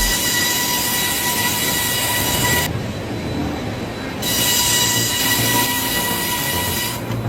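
A steady, high-pitched metallic squeal from heavy machinery. It breaks off for about a second and a half near the middle and stops again just before the end.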